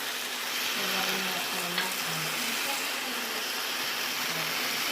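Pancit noodles and vegetables sizzling in a frying pan, a steady hiss, with a single light click about two seconds in and faint voices underneath.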